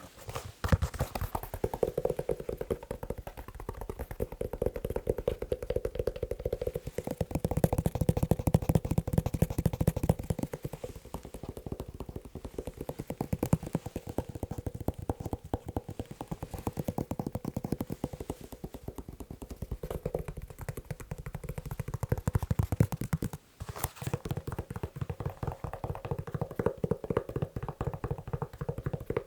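Fast tapping of fingers on a leather shoe: a dense run of quick light taps, with a short break just after the start and another about two-thirds of the way through.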